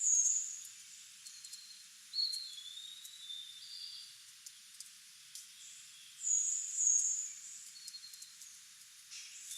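Wild birds calling: a high, thin whistled note right at the start and again about six and a half seconds in, with softer, lower whistled notes and small ticks in between.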